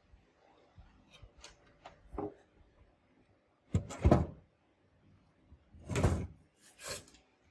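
Handling noises: a few light clicks, then louder knocks about two seconds in, near the middle and again near the end, like an object being moved and set down.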